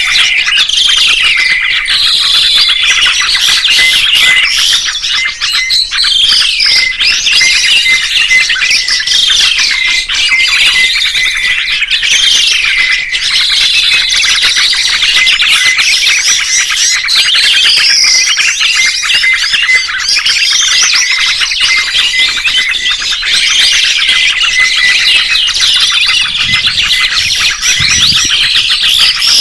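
Caged songbird singing without a break, a dense stream of rapid chirps and repeated rising-and-falling whistled phrases.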